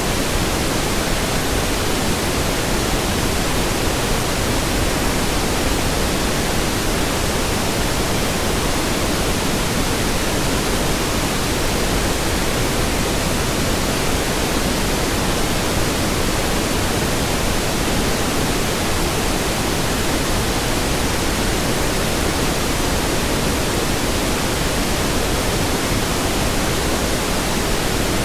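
Steady pink noise: an even hiss spread across all pitches, unchanging in level.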